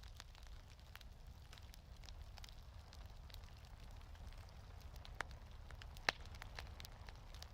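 Wood fire crackling in a fireplace: scattered small pops over a low steady rumble, with a louder pop about five seconds in and the loudest about six seconds in.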